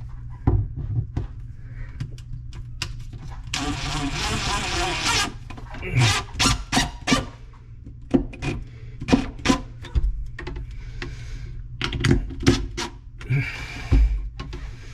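Knocking and clattering of tools and plumbing parts being handled, with a rasping scrape lasting about a second and a half about four seconds in.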